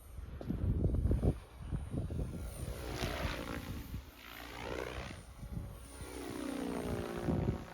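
Electric RC helicopter (OMPHobby M4 Max) flying, its rotor and motor whine sweeping up and down in pitch as it moves around, with wind buffeting the microphone.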